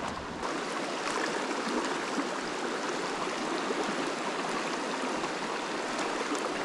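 Small mountain creek running, a steady rush of water.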